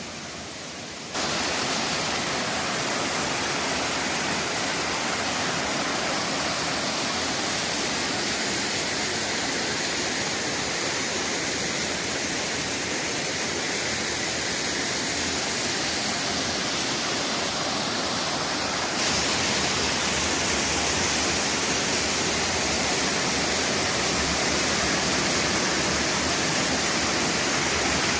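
A waterfall's water pouring and splashing: a steady, dense rushing noise that jumps abruptly louder about a second in and turns brighter and hissier about two-thirds of the way through.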